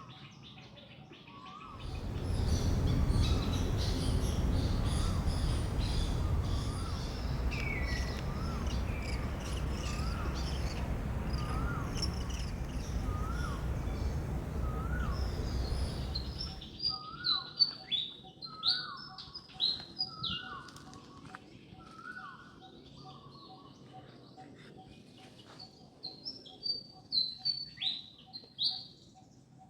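Birds chirping and calling, with a short rising call repeated about once a second. A loud low rumble covers the first half, and sharp chirps come in a quick run near the end.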